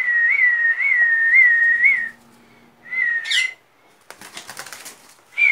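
Someone whistling a steady high note with small regular lifts in pitch for about two seconds, then a shorter whistle that sweeps up at its end, followed by faint rustling.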